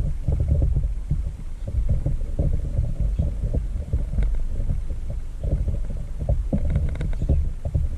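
Small birds pecking and striking the feeder dish, the knocks carried straight into a camera fixed to the feeder: a dense, irregular run of low knocks and thumps.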